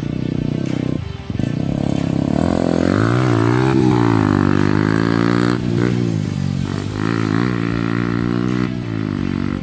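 Yamaha R15's single-cylinder four-stroke engine revving as the motorcycle is ridden, its pitch rising and falling with the throttle and briefly dropping about a second in.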